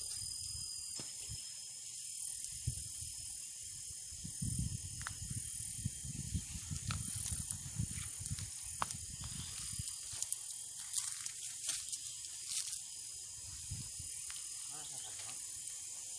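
Steady high-pitched chorus of insects in tropical brush. Between about four and nine seconds in, low thuds and rustling join it, with scattered clicks.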